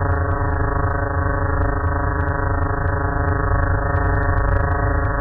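Synthesized 'sounds' of the moons Elara and Fornjot played together: a steady, loud, low buzzing drone with many even overtones that does not change.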